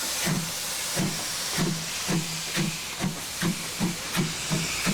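Steam locomotive puffing with a steady hiss of steam, its exhaust beats speeding up from under two to about two and a half a second as it gets under way.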